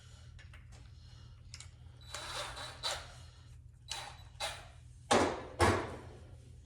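Workshop handling noises while taking the mower apart: a series of short scrapes and knocks, the last two, near the end, much louder than the rest, over a steady low hum.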